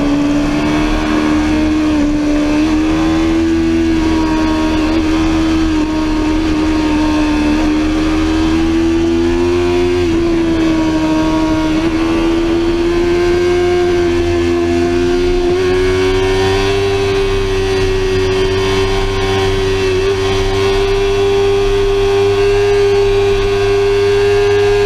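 Sportbike engine running hard at high revs, its note climbing slowly and steadily, with brief small dips about ten and fifteen seconds in.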